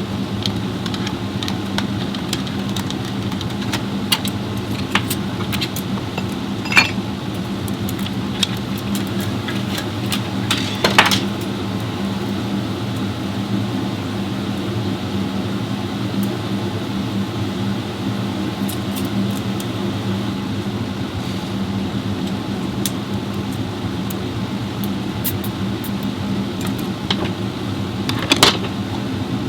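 A steady low mechanical hum, with a few short, sharp clinks: one about seven seconds in, a cluster about eleven seconds in, and one near the end.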